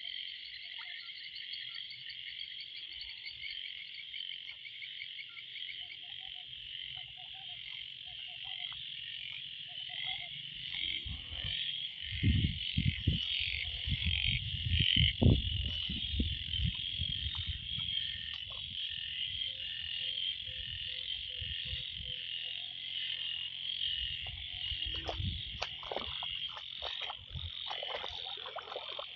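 Dense frog chorus after heavy rain: a constant, high-pitched pulsing trill from many small frogs, with a bigger frog's lower croaks repeating about once a second in the first part. About twelve seconds in, a run of low thumps and rumbling, the loudest sound, lasts a few seconds.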